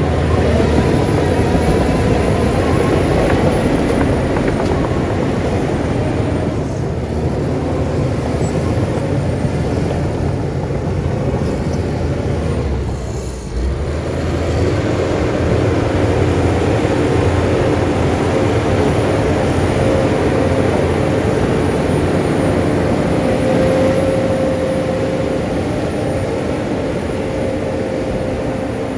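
Heavy earthmoving machinery's diesel engine running continuously, with a brief dip in level about thirteen seconds in.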